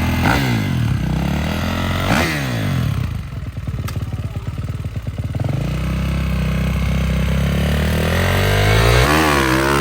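Dirt bike engines revving, pitch sweeping up and down several times, with a choppier, lower-revving stretch in the middle, a steadier engine drone after it, and another rev near the end.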